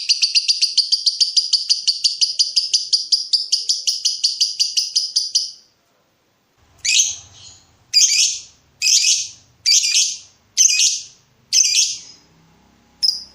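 Lovebird in a long ngekek: a rapid chattering trill of about ten high notes a second that stops about five and a half seconds in. After a short pause come about six separate harsh calls roughly a second apart, then a few short chirps near the end.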